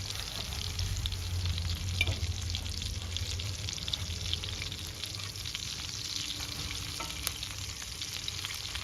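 Steady crackling and sizzling of food cooking over an open wood fire, a dense patter of small pops. A low rumble runs underneath for the first several seconds.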